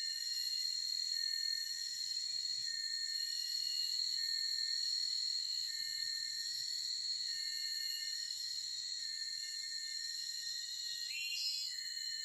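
Forest insects chirring steadily in several high, layered tones, the highest pulsing about once a second. A short rising whistle cuts in near the end.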